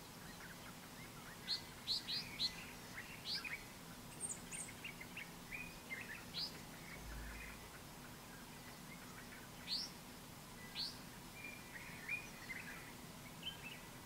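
Wild birds calling: short, sharp upward-sweeping chirps, several in quick succession in the first few seconds and a few more around ten seconds in, over softer twittering and a faint steady hiss.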